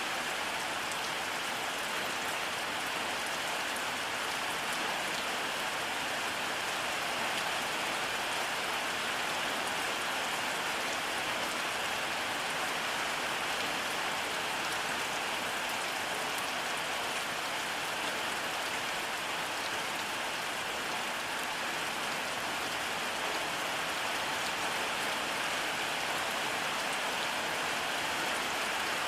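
Steady rainfall: an even hiss of rain on a surface, with fine individual drop patter and no thunder.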